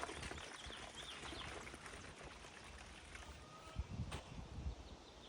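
A small bird chirping quick runs of short, falling high notes, over a faint steady hiss, with a couple of soft low knocks near the end.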